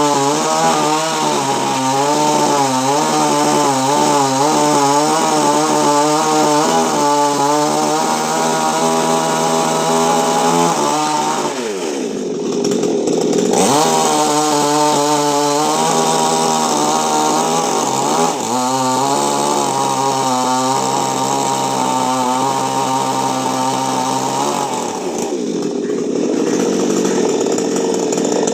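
Two-stroke chainsaw running under load as it cuts a coconut palm, its engine pitch wavering through the cut. About halfway through the revs drop and climb back, and they change again near the end.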